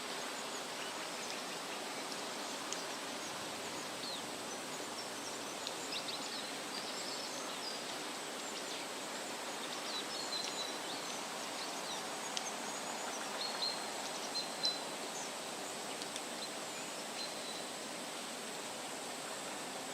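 Steady rustle of wind through leafy woodland, with scattered short, high bird chirps that come most often midway through.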